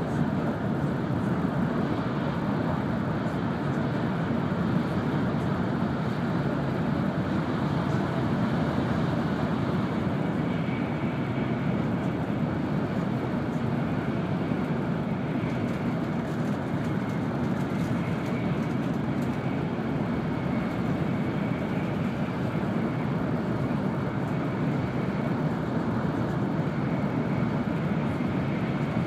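Cabin noise of an N700 series Shinkansen running at speed: a steady even rush of wheels and air, with a faint high tone joining about a third of the way in.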